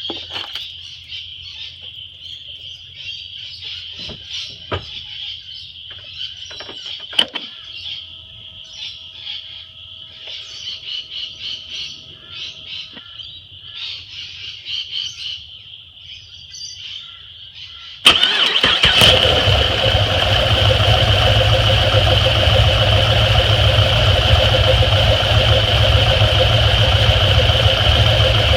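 Steady high chirping of insects with a few clicks, then about eighteen seconds in the Holden SS's 6.2-litre LS3 V8 cranks, catches suddenly and runs steadily. This is the engine whose noise the owner presents as piston slap.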